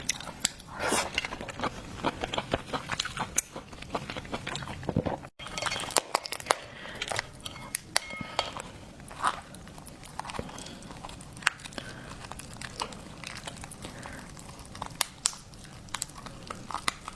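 Close-up eating and shelling of seafood by hand: irregular clicks and crackles of shell being pried apart, with light clinks of utensils and dishes.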